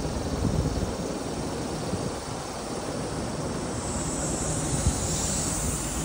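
Kintetsu electric train running past the platform: a steady rumble of wheels on rail, with a high hiss joining about four seconds in.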